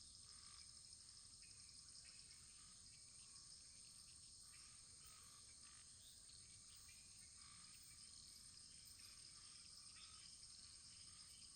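Faint crackling wood fire: scattered soft small pops and ticks over a steady high-pitched hiss.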